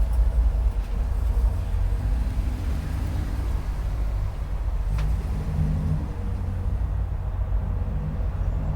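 Steady low rumble of a motor vehicle running nearby, with a brief click about five seconds in.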